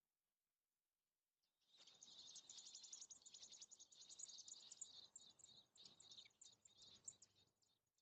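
A burst of dense, rapid, high-pitched chirping from American robins at the nest, most likely nestlings begging, starting suddenly about two seconds in and fading out near the end, with a faint rustle underneath.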